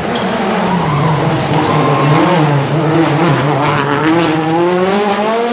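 Rally car engine running hard. Its pitch dips about two seconds in, then climbs steadily toward the end as the car accelerates.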